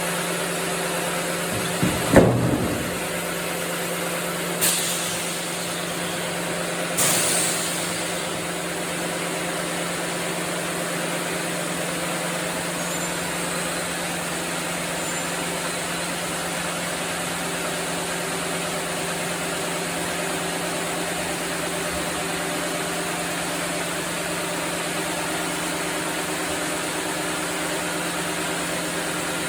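Sawmill machinery running with a steady hum, broken by three knocks in the first eight seconds, the first the loudest.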